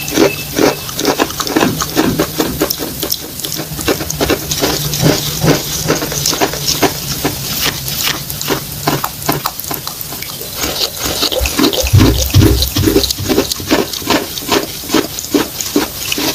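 Close-miked wet chewing of chalk mixed with clay paste: a steady run of moist, smacking chews, about three a second, with a few dull low thumps about twelve seconds in.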